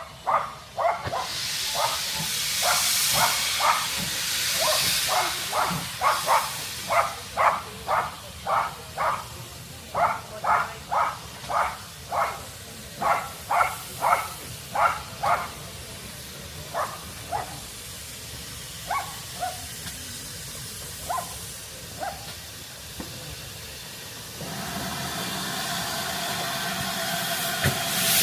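Steam locomotive hissing steam, swelling early on and again strongly near the end. Over it comes a long run of short, sharp sounds, about two a second, which thin out to scattered single ones after about sixteen seconds.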